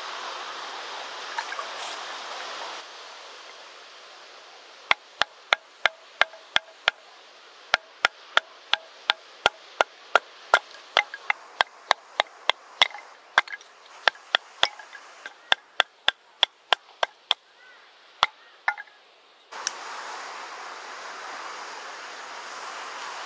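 A run of about three dozen sharp chopping strikes, two to three a second, a blade striking wood. Before and after it there is a steady rush of surf and wind.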